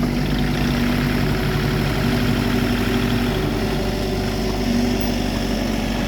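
Engine of heavy work machinery running steadily at an even speed, with no revving.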